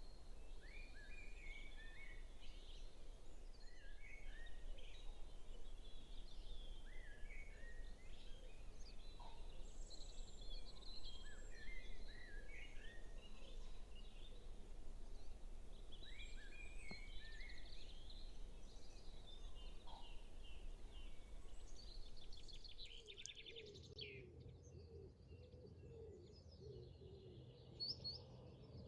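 Faint dawn chorus of songbirds picked up by a phone: one bird repeats a short, falling song phrase every few seconds among other chirps and calls. About 23 seconds in the sound changes abruptly to a quieter scene with a steady low hum under fainter bird calls.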